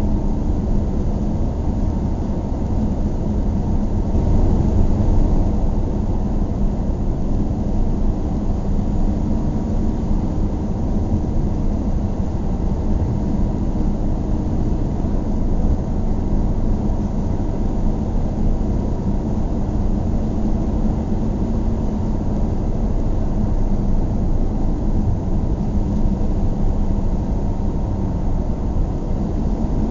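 Steady low rumble of a car driving at a constant pace: engine hum and tyre and road noise, with no change in speed.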